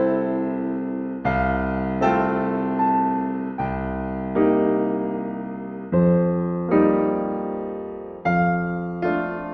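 Slow, calm solo piano music: chords struck about once a second, each ringing and fading before the next.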